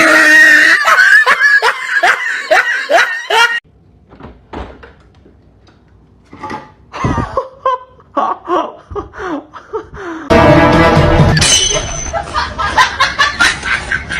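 Laughter in a quick run of repeated short falling notes, then a quieter stretch with scattered small sounds, then loud music from about two-thirds of the way in.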